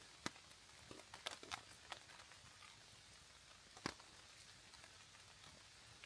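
Faint, scattered ticks of raindrops landing at irregular moments over a quiet hiss, the loudest one about four seconds in.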